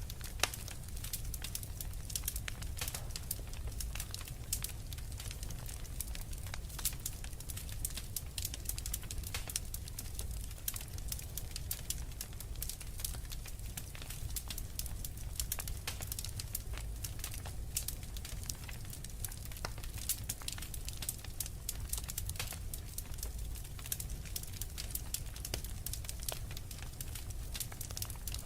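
Wood fire crackling, with frequent irregular sharp pops over a low steady rumble.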